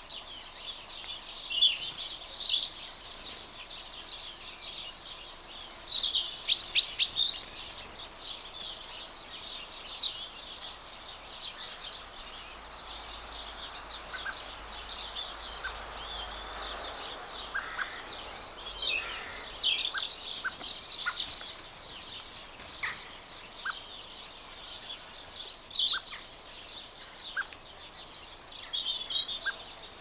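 Songbirds calling: many short, high chirps and quick twittering notes, coming in bursts every few seconds.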